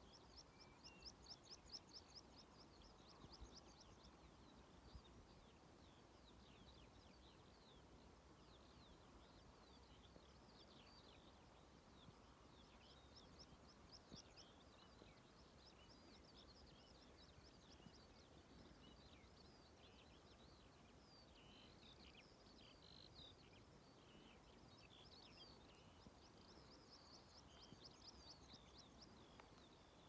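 Faint birdsong from a songbird: a long, unbroken run of rapid high chirps and trills. Under it is a low steady rumble.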